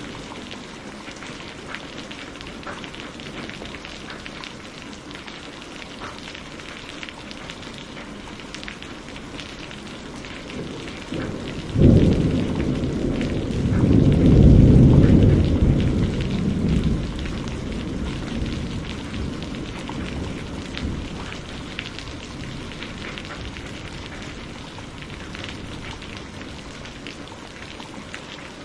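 Steady rain falling, with a thunder clap that cracks suddenly about twelve seconds in, swells into a loud low rumble and dies away over several seconds.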